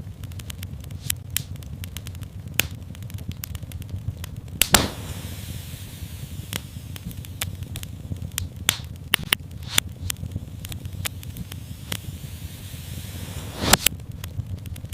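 Wood fire crackling steadily over a low rumble, with two louder pops, about five seconds in and near the end, and a soft hiss between them.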